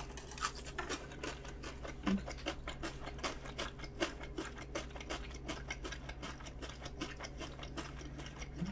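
Quiet chewing: a dense run of soft, irregular clicks over a faint steady low hum.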